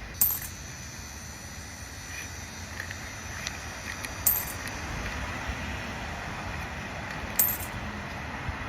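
Three short crinkles of a foil booster-pack wrapper being handled, over the steady low rumble of passing traffic that grows a little louder partway through.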